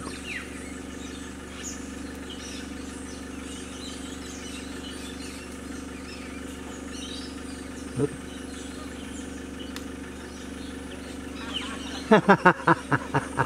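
Steady low hum of a car engine idling, with faint chirps of small birds over it. Near the end comes a quick run of about seven loud pulsed sounds.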